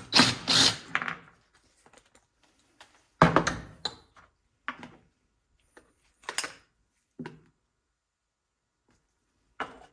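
A series of irregular knocks and clatters of tools and small metal parts being handled on a workbench while a small-engine carburetor is taken apart, the loudest about three seconds in.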